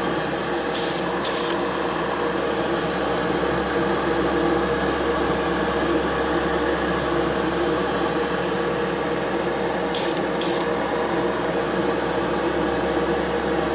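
Short hisses of spray paint, two quick bursts about a second in and two more about ten seconds in, over a steady mechanical hum.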